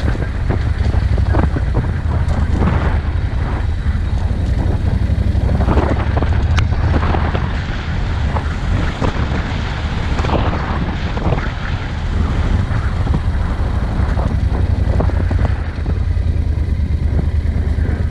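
Vehicle engine running steadily while driving over a rough, muddy dirt track, with scattered knocks and rattles from the wheels and body, and wind noise on the microphone.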